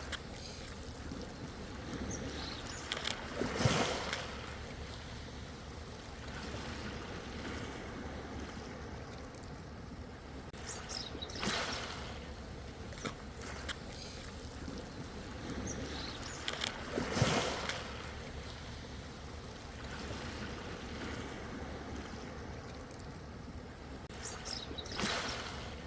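Ocean waves washing in and breaking, four surges of splash and hiss roughly every six to eight seconds, over a steady low rumble of surf.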